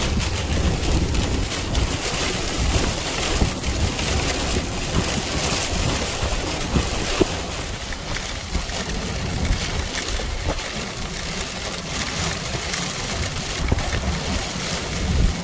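Rushing storm water with wind buffeting the microphone: a steady rushing noise under a gusty low rumble.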